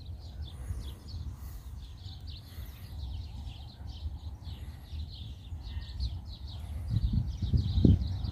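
Small birds chirping over and over in high, quick notes, over a steady low rumble that grows louder with a few thumps near the end.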